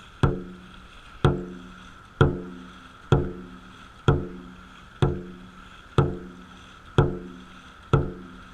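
Dragon boat drum beaten in a steady pace of about one stroke a second, nine strikes in all, each hit ringing briefly with a low pitched tone: the drummer calling the paddlers' stroke rate.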